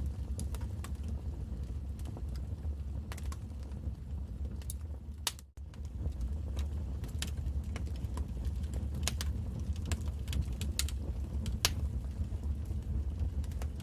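Wood fire burning in a fireplace: irregular sharp crackles and pops over a steady low rumble of the flames. The sound cuts out for a split second about five and a half seconds in.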